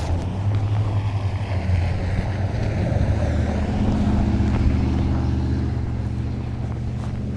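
A motor vehicle's engine running, its low hum rising in pitch and growing louder to a peak about four to five seconds in, then easing off, with wind buffeting the microphone.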